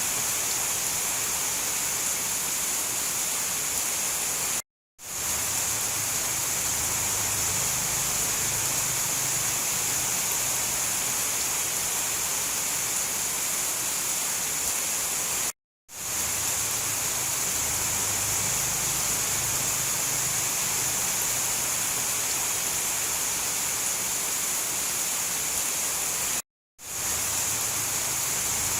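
Steady heavy rain, an even hiss. It cuts out to complete silence three times, briefly, about eleven seconds apart, and fades straight back in each time: the seams of a looped recording.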